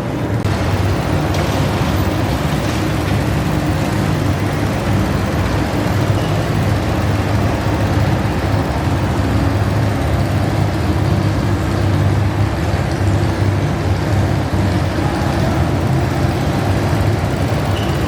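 Modified garden tractor engine running hard, loud and steady, with a deep exhaust note.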